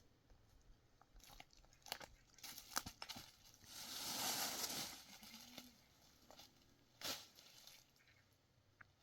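Rustling and crinkling handling sounds with scattered sharp clicks, and a swell of rushing noise about four seconds in.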